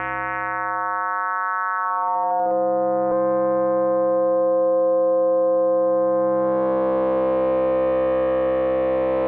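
K-ACCUMULATOR synthesizer oscillator module holding a steady drone rich in overtones. About two seconds in, the timbre shifts with a brief crackle as it moves into its FBPM2 tone/chaos mode. From about six and a half seconds the tone turns brighter and grittier, the start of the chaos.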